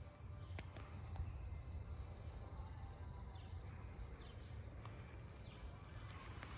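Birds chirping on and off, short calls scattered through, over a steady low rumble outdoors.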